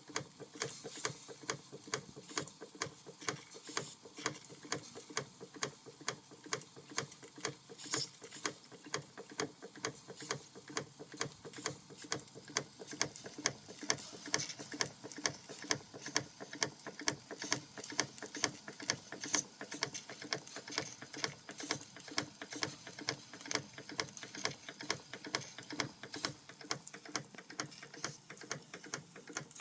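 Vintage Krick model marine steam engine running, its mechanism giving a steady, even ticking beat of a few clicks a second.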